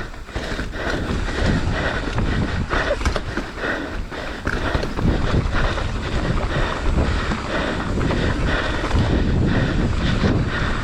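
Mountain bike descending a rough trail at speed: wind rushing over the microphone, with tyre noise and frequent knocks and rattles from the bike over bumps.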